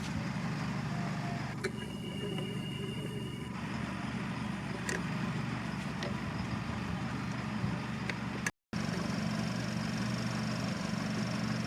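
Combine harvester engine and machinery running with a steady low hum, broken by a brief total dropout about eight and a half seconds in.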